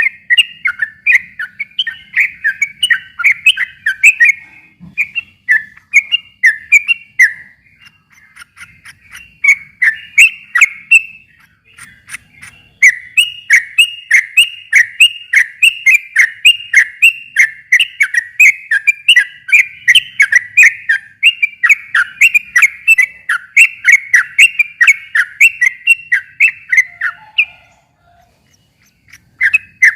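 Yellow-vented bulbul (trucukan) singing a long, rapid rolling song of repeated chattering notes, about four a second, broken by a few short pauses.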